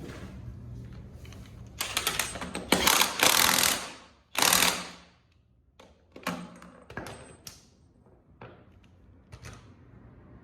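Impact wrench tightening wheel fasteners, rattling in two long bursts of a second or two, then several short, quieter bursts.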